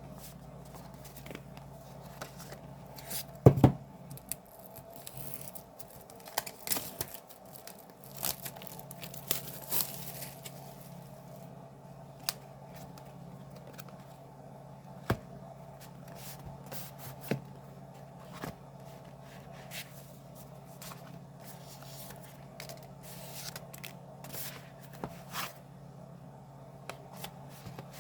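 Paper and plastic album packaging being torn and crinkled while a CD album is unpacked, with scattered small clicks and taps and one sharp knock a few seconds in. A steady low hum runs underneath.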